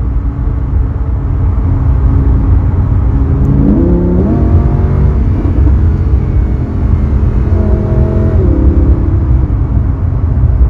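Lamborghini Aventador's V12 engine driving, over a heavy low rumble, its note climbing as it revs up about four seconds in and rising briefly again near eight seconds.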